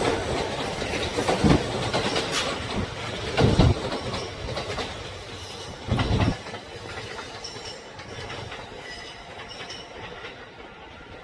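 Electric commuter train passing close, its wheels knocking over the rail joints in clickety-clack beats about two seconds apart. After about six seconds the knocks stop and the running sound fades as the train draws away.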